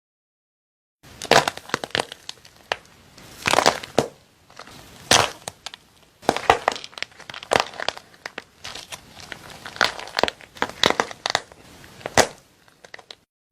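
Close-up crackling and crunching of a crisp material being pressed and broken, in dense runs of small clicks with louder crunches every second or two, starting about a second in.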